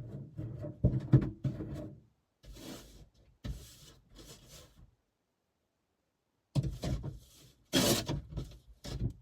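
Irregular bursts of rubbing and knocking handling noise with a few sharp clicks, broken by two stretches of silence; the loudest burst comes just before the end.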